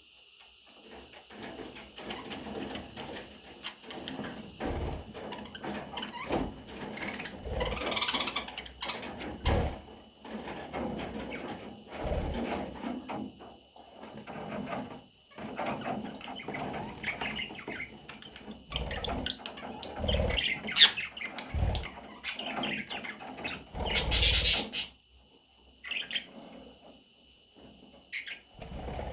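Budgerigar chicks chirping and chattering continuously, with scattered thumps and scrapes; the loudest thump comes near the end.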